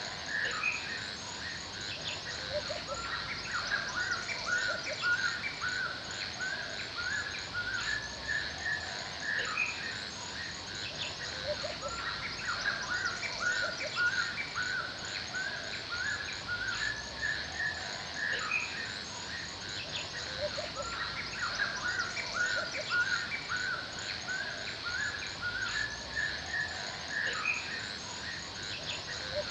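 Forest ambience with many birds chirping and calling throughout, over a steady high insect-like hiss.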